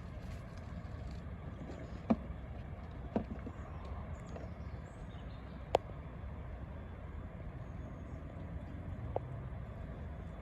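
A steady low rumble with a few sharp knocks scattered through it.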